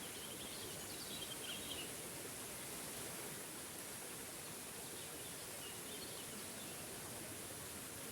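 Small forest waterfall rushing steadily. Faint bird chirps come through twice, about a second in and again around five to six seconds in.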